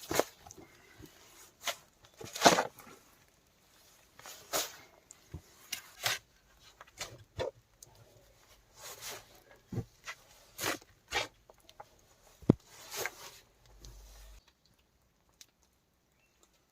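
A series of irregular knocks and scrapes, one every second or so, the loudest about two and a half seconds in, stopping about two-thirds of the way through.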